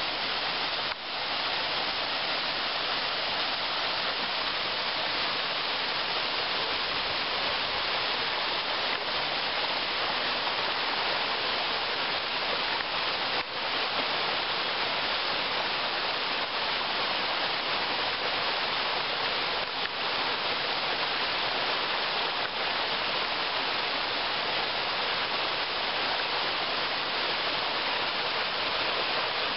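Waterfall water rushing and splashing, a steady unbroken hiss.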